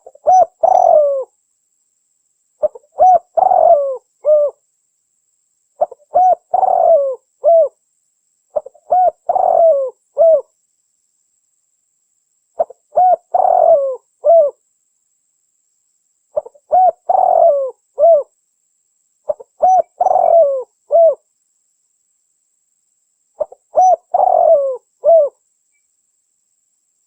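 Spotted dove (tekukur) cooing: eight phrases of several coo notes each, repeated about every three seconds with silence between.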